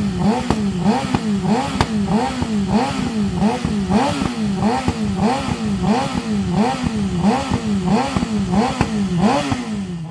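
Suzuki GSX-R600 K7's inline-four engine revved in quick, even throttle blips through a decatted Dominator HP3 exhaust with no dB killer. The pitch rises and falls a little under twice a second, with a few sharp pops between the blips.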